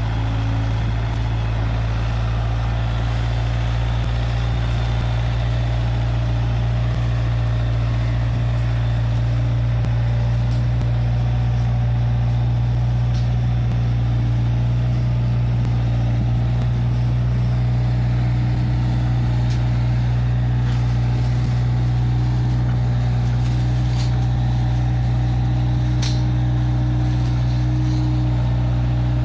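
Case 580G backhoe loader's diesel engine running at a steady speed, with a few faint clicks in the second half.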